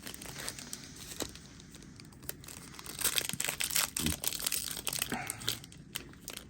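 Foil booster pack wrapper being torn open and crinkled, with sparse crackles at first, then a busier, louder stretch of crinkling from about halfway through.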